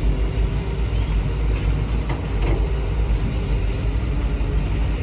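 Machinery running with a steady low rumble.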